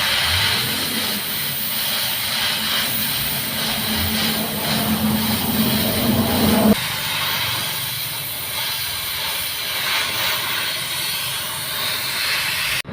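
Steady hissing noise of workshop machinery running, with a low hum that rises slightly and cuts off suddenly about seven seconds in.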